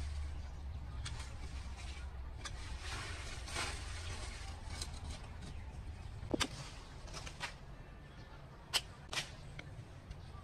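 A low steady hum that fades out about halfway, with soft rustling and a few scattered sharp clicks or taps, the loudest about six and nine seconds in.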